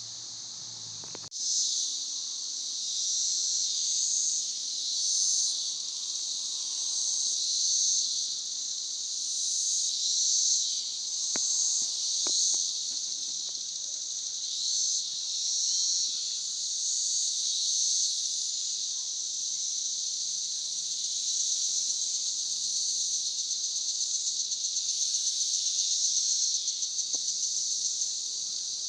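Chorus of 17-year periodical cicadas: a steady high buzzing that swells and fades in slow waves, turning into a fast even pulsing toward the end.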